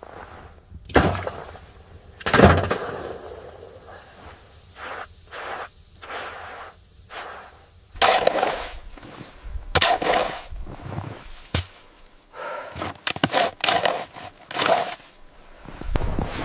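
A series of irregular knocks and scrapes, the loudest two sharp knocks about one and two and a half seconds in, followed by clusters of rougher scraping or rustling noises.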